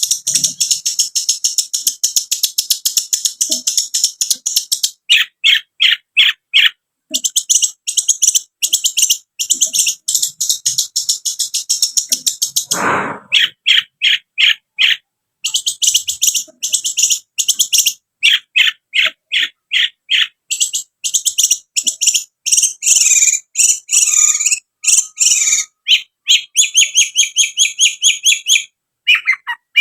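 Long-tailed shrike (cendet) singing loud, fast runs of short, high chattering notes, phrase after phrase with brief breaks. One quick falling swoop comes about halfway through.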